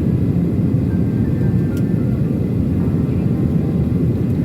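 Steady, loud rumble of a jet airliner's engines and airflow heard from inside the passenger cabin.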